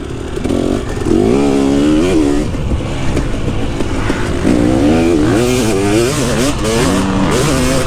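KTM 250 SX single-cylinder two-stroke motocross engine revving hard, its pitch climbing and dropping over and over as the throttle opens and closes.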